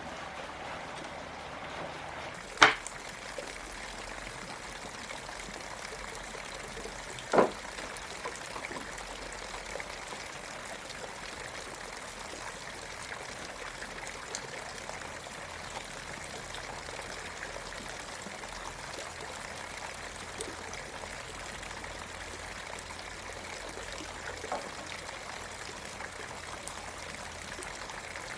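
Stream water running steadily, with two sharp knocks, one a few seconds in and a louder-sounding second about seven seconds in, and a fainter knock near the end.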